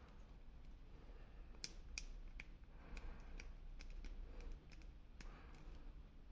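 Irregular light clicks and taps of hard plastic being handled: an action figure and its packaging being worked by hand. The clicks come in small clusters, the sharpest about two seconds in.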